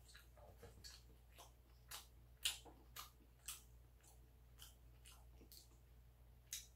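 Faint chewing: soft wet mouth clicks and smacks of a person eating, irregular, about two a second.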